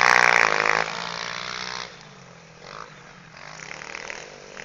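Pit bike engine revving hard close by, dropping away sharply about a second in, then fainter in the distance with its pitch rising and falling as the rider works the throttle.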